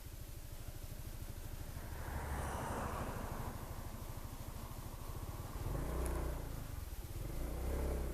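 Honda SH 300i scooter's single-cylinder engine running with a steady even beat, then growing louder about two-thirds of the way through as it pulls away.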